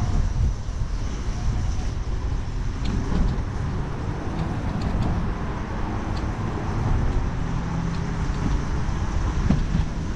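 Steady road noise from riding in traffic: a dense rumble of wind and passing vehicles, with a few faint ticks.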